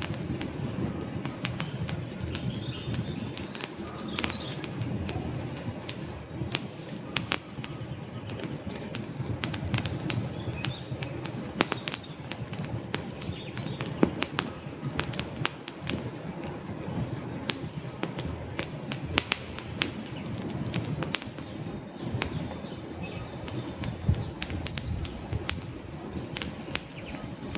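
Campfire of burning wood logs: frequent sharp crackles and snaps over a steady low rumble of the flames.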